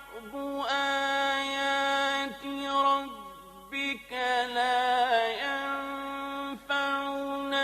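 A man's voice chanting Quran recitation in long, drawn-out melodic notes, with wavering ornaments on some held notes and short breaks between phrases.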